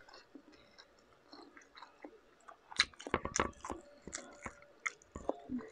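Close-miked eating of shrimp: chewing and biting with small crackling clicks, faint at first, then a run of sharper clicks and crunches from about halfway.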